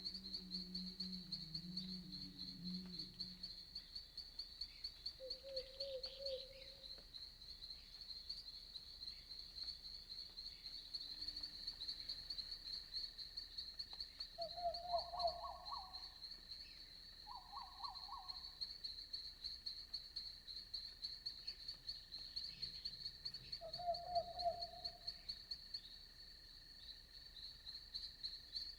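Night-time chorus of crickets, a steady high-pitched pulsing chirr. A few short, lower trilled calls break in now and then, and a brief low call sounds near the start.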